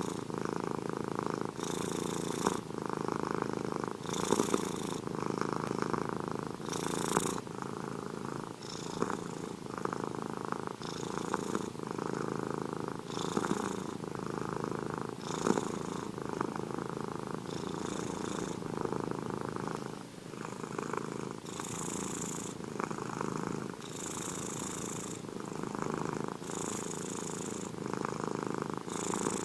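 Domestic cat purring steadily, the purr rising and falling with each breath about every two and a half seconds, each breath carrying a short airy hiss.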